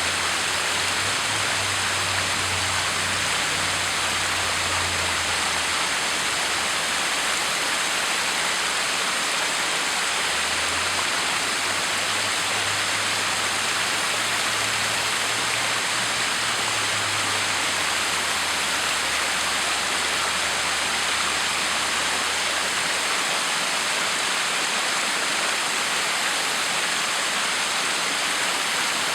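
Backyard waterfall with water pouring and splashing steadily. A faint low hum runs underneath and fades out near the end.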